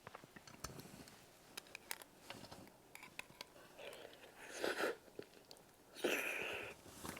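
Close-miked chewing of tteokbokki with sausage: soft wet chewing and small mouth clicks, with two louder wet mouth sounds, a short one partway through and a longer one about six seconds in.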